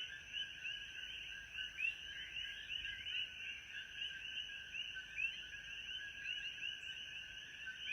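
Dense chorus of many small animals calling, with overlapping short chirps running on without a break over a steady high-pitched whine, as from a frog chorus.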